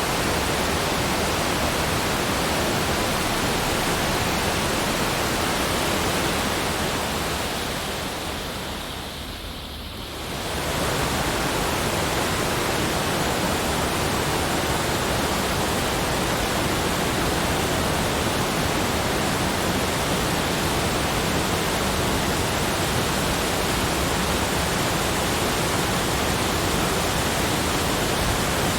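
Steady, even rushing noise from a nature-sound track, with no separate events in it. It fades down briefly about eight seconds in and comes back up about three seconds later.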